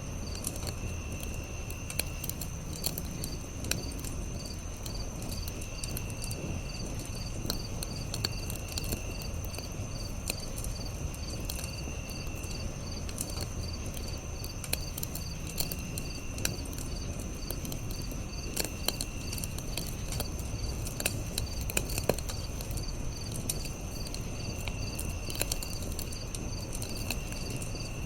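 Campfire crackling with scattered sharp pops, one louder about three-quarters of the way in, over a low steady rumble. Crickets and other insects chirp throughout: a steady high trill, a row of regular high chirps, and a lower trill that comes in for about a second every few seconds.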